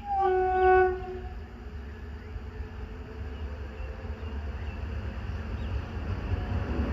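An electric train's horn sounds one blast of about a second, its pitch dipping slightly as it starts. Then comes a low rumble of the train that slowly grows louder as it approaches.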